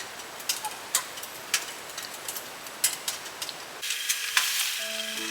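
Wood fire crackling: a steady hiss with irregular sharp pops and snaps. Music comes in near the end.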